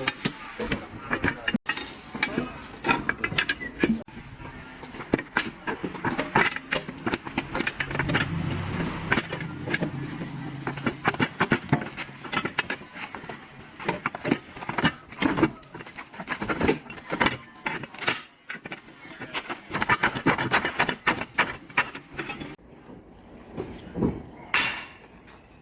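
Irregular metal clinks and knocks of hand tools on a bulldozer's steel track chain as links are taken apart, with a low hum for a few seconds around the middle.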